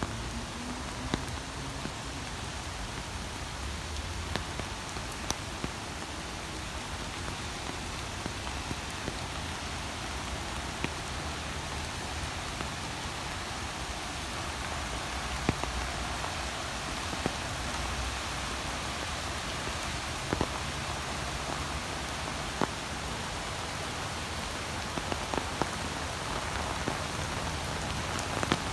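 Steady rain falling in a park, an even hiss of rain on surfaces, with scattered sharper drips landing close by.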